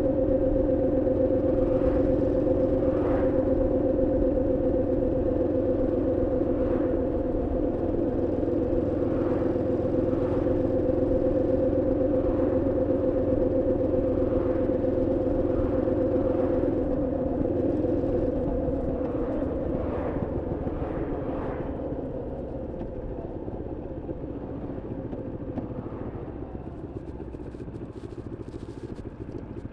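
Moto Morini X-Cape's 649 cc parallel-twin engine running at a steady cruise under a rider, with road and wind rumble, while the bike is still being run in. From a little past halfway the engine note dips and fades as the bike slows.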